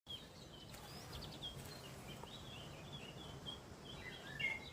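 Small birds chirping and singing in many short, quick notes, busier near the end, over a faint steady low rumble.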